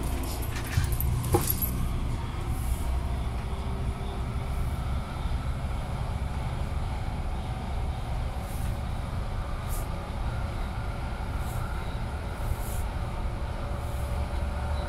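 Interior running noise of an MTR Airport Express train in motion: a steady low rumble of wheels on rail, with a couple of sharp clicks about a second and a half in.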